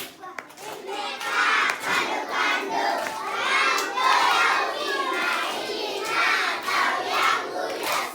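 A group of children shouting together, many high voices at once, starting about a second in.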